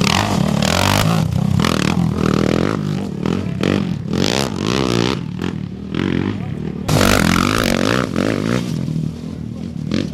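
Off-road race motorcycle engines revving hard and passing, their pitch rising and falling, with a loud surge about seven seconds in.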